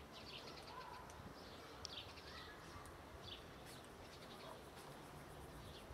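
Quiet outdoor ambience with a handful of faint, short bird chirps scattered through it.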